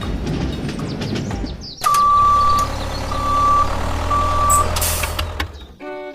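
A vehicle's reversing alarm beeping three times at one pitch, the first beep longer, over a running engine's low hum. Before the beeps there is a stretch of rougher engine noise, and the engine sound cuts off near the end.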